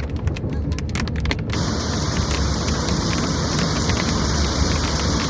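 Heavy rain pouring down steadily, with a deep rumble underneath. About a second and a half in, the patter of separate drops gives way to a fuller, brighter hiss.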